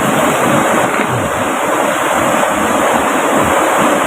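A river rushing steadily past, a loud, even roar of water.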